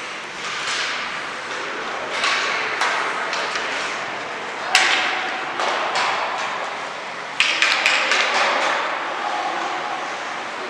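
Sharp knocks and clacks over a steady hiss of scraping, echoing in a large hall, typical of youth ice hockey play: sticks and puck striking, and skates scraping the ice. The loudest knock comes about halfway through, and a quick run of clacks follows a few seconds later.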